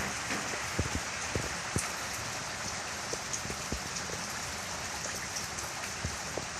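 Rain falling steadily, with single louder drips ticking close by now and then.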